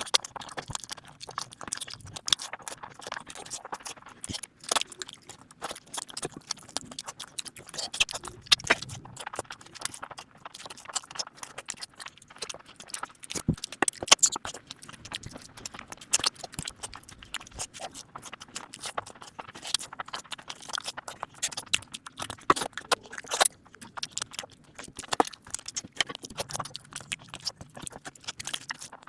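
Close-miked ASMR eating sounds: wet chewing, lip smacks and mouth clicks, with food handled by hand, as someone eats mutton curry.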